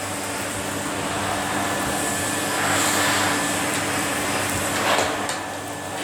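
Numatic Henry canister vacuum cleaner running steadily, a motor hum under a broad hiss. The hiss swells for about a second halfway through and again briefly near the end.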